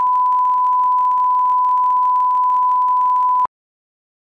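Test tone: one steady, pure beep at a single pitch that cuts off suddenly about three and a half seconds in.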